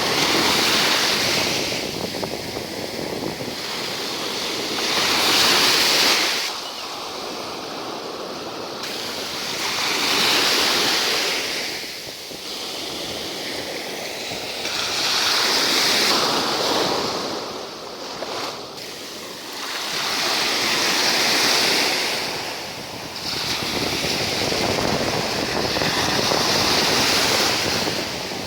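Sea waves washing onto the shore, the surf swelling and fading about every five seconds.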